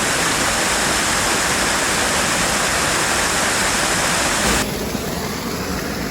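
Steady rush of a fast-flowing stream or small waterfall. About four and a half seconds in it cuts abruptly to a quieter, duller rush.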